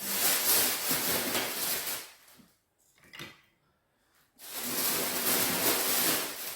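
Kindling being packed into a wood stove's firebox: two spells of scraping and rustling as pieces of wood are slid in against each other, with a short pause between them.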